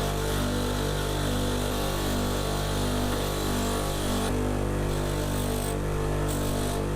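A small electric motor running steadily, with a low hum under a hiss. The hiss drops away abruptly about four seconds in and comes back and goes again near the end.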